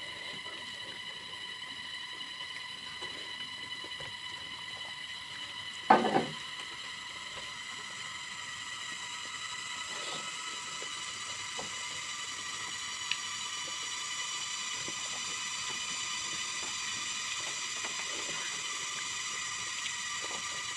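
A person eating a meal of rice and dal: faint scattered clicks against a plate, with one loud clatter about six seconds in, over a steady high-pitched whine.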